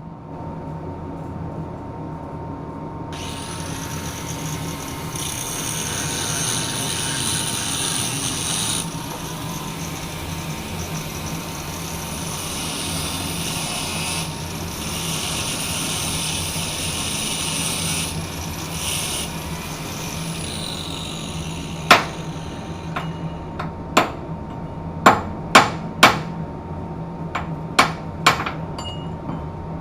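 An angle grinder spins up and cuts for about seventeen seconds, then winds down. It is followed by a run of sharp, unevenly spaced hammer blows, about eight of them, over a steady machinery hum.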